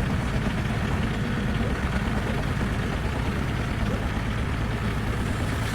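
Vehicle engine running steadily, a constant low-pitched drone with no change in speed.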